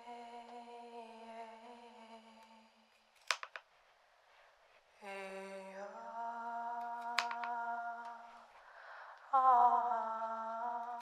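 A voice humming long, steady held tones, three in turn with short pauses between; the second starts low and slides up slightly, the third starts a little higher and eases down. A few sharp clicks cut in, one in the first pause and one during the second tone.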